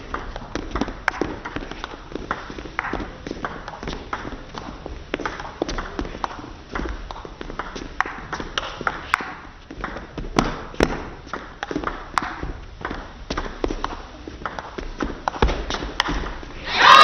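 A long table tennis rally: irregular sharp clicks of the ball off the rackets and the table, with low thumps of footwork. It ends in a sudden burst of audience applause and cheering near the end.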